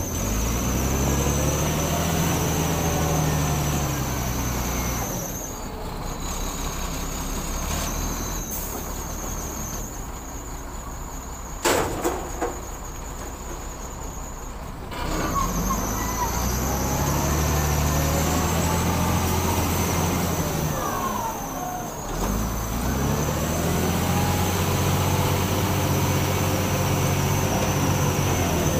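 Heavy diesel engine of the sand-loading machinery, revving up and easing back in repeated working cycles, with a thin high whine over it. A short sharp burst stands out about twelve seconds in.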